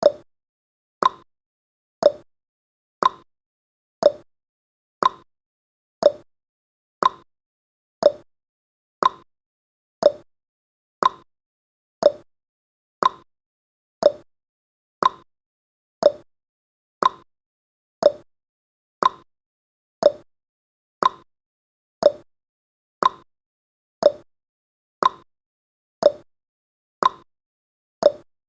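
Countdown timer's ticking sound effect, one short clock-like tick each second, alternating between a lower and a higher tick like a tick-tock.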